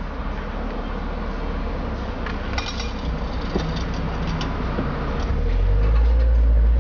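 MG F sports car's engine running, heard from inside the cabin, with a few light clinks about two and a half seconds in. Near the end the engine gets louder as the car pulls away.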